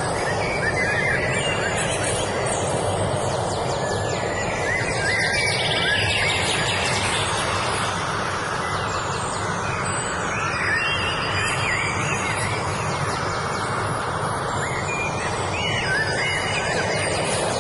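Songbirds singing in short chirping phrases that come in several clusters. Beneath them is a steady rushing background noise.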